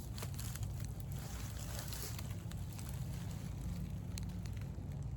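Wind buffeting the microphone: a steady low rumble, with faint scattered clicks above it.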